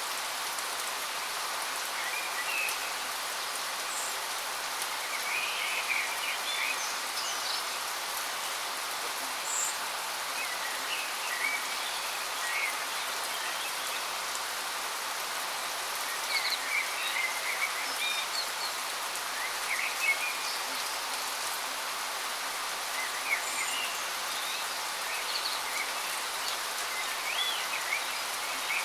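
Steady rush of a waterfall, with small birds chirping now and then over it.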